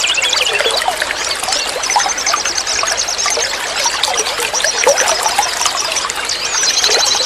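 Running water trickling and splashing steadily, with a small bird's rapid high trills breaking in a few times, longest near the end.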